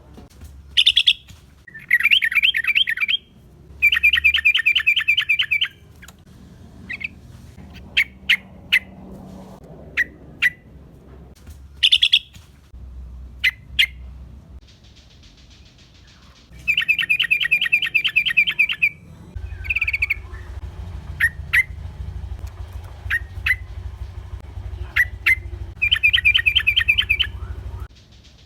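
Yellow-vented bulbul calling in repeated bouts of rapid chattering trills, each a second or two long, with short sharp chirps between them. It is a loud, lively lure call of the kind used to draw other bulbuls in.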